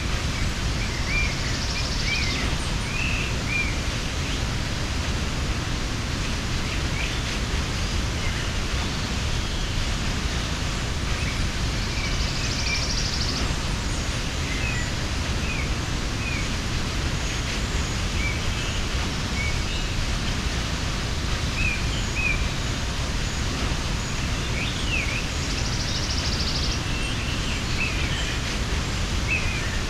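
Waterfall rushing steadily, with many short bird chirps over it and a brief high, hissy call three times, about twelve seconds apart.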